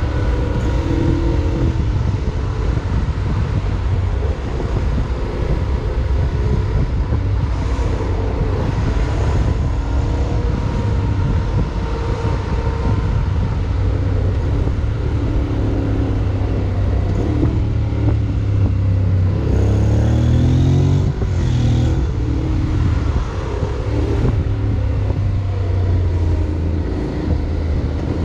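Riding noise from a Honda X-ADV 750 motorcycle on the move: a steady, loud low rumble of wind, road and engine drone. About two-thirds of the way through, an engine note rises in pitch as a vehicle accelerates.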